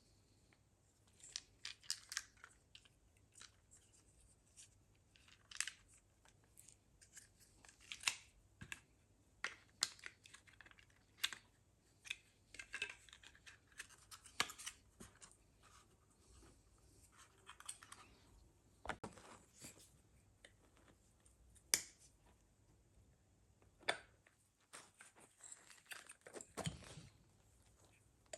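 Hand tools and the parts of a Wilo circulation pump being handled as it is taken apart. Irregular small clicks, scrapes and rattles, with a sharper knock now and then.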